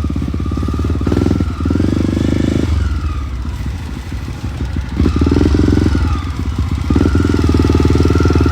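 Off-road motorcycle engine running, with the throttle opened in several bursts: about a second in, about five seconds in and again about seven seconds in.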